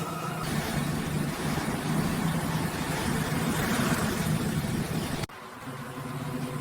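Motorcycle engine running steadily with road noise. It cuts out suddenly about five seconds in, then comes back and builds again.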